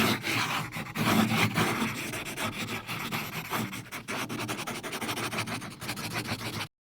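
Pencil drawing on paper: continuous scratchy rubbing of the lead across the sheet in many quick strokes that rise and fall in loudness, stopping abruptly near the end.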